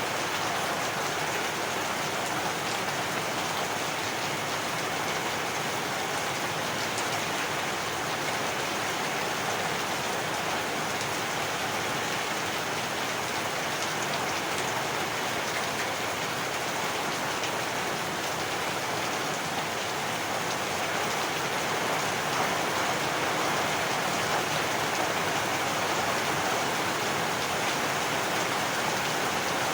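Heavy rain falling steadily, a dense even patter of drops on surfaces with no break.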